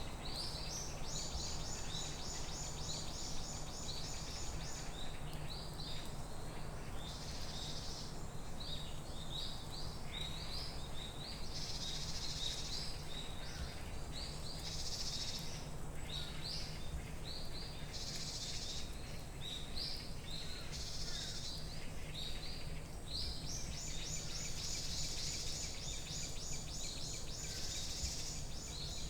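Forest ambience: many short, high bird chirps and calls, with long, rapidly pulsing buzzy trills near the start and again near the end. A steady low rumble runs underneath.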